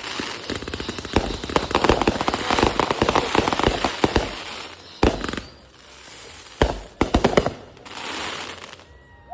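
Fireworks going off: a dense run of rapid crackling pops for about four seconds, then several separate sharp bangs, and a softer crackle near the end.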